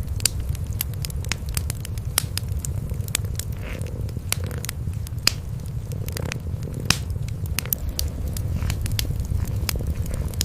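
Cats purring in a low steady rumble, over a wood fire crackling with frequent sharp pops.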